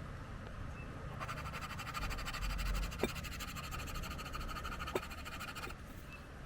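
Watercolor pencil scratching in quick, even strokes on synthetic paper, from about a second in until shortly before the end, with two light clicks. Under it runs a steady low rumble of wind on the microphone.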